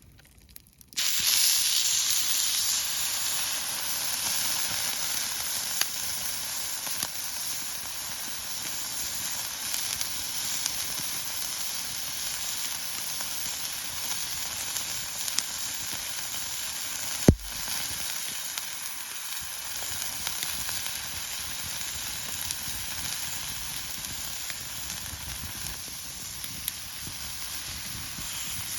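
Beef tongue sizzling on a hot iron griddle plate over a campfire. The sizzle starts suddenly about a second in, loudest at first, then settles to a steady hiss. A single sharp click comes partway through.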